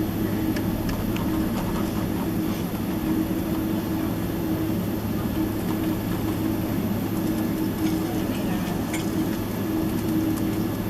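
Boeing 767-300ER cabin noise: a steady low drone with a constant hum, and a few faint clicks.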